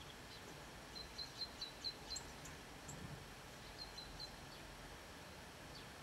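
A small songbird calling in a quick run of short, high chirps about a second in, with a few more around four seconds. A faint steady hiss lies underneath.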